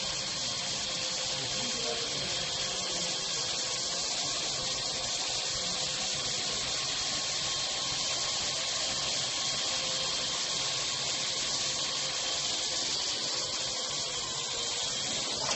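Parrot AR.Drone quadcopter's four rotors running steadily in flight: an even rushing hiss with a constant motor whine that holds one pitch throughout.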